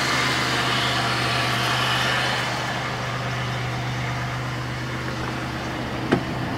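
1997 Chevrolet Malibu's 3.1 V6 idling steadily and running kind of loud. It is warming up while the cooling system is burped. A single sharp click comes about six seconds in.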